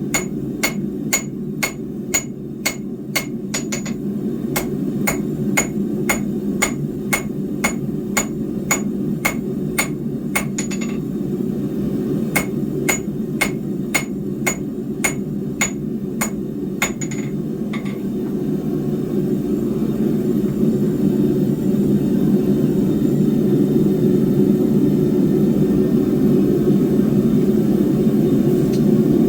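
Hand hammer striking hot square steel bar on an anvil, drawing it out into a spike: sharp ringing blows about two a second with two brief pauses, stopping about 17 seconds in. A steady low rushing noise runs underneath throughout and grows slightly louder after the hammering stops.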